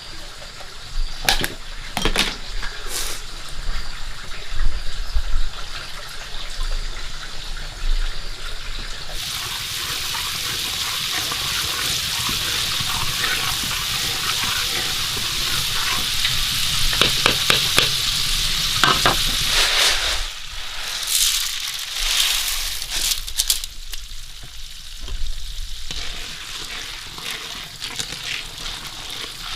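Food sizzling in a hot pan, with knocks of a utensil stirring it. A steady sizzle swells about a third of the way in and dies away about two-thirds through.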